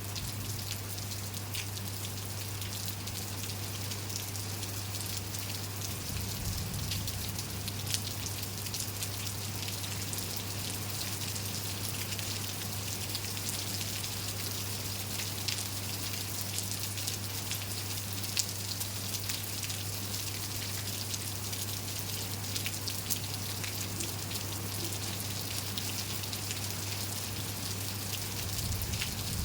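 Steady rain falling, a constant hiss with many individual drops ticking sharply on surfaces. A steady low hum runs underneath.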